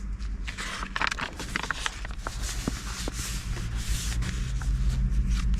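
Paper rubbing and rustling as planner pages are handled and pressed, a scratchy sound with many small clicks.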